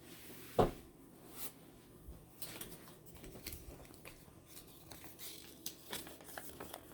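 Quiet rustling and light clicks of things being handled, with one sharper knock just over half a second in.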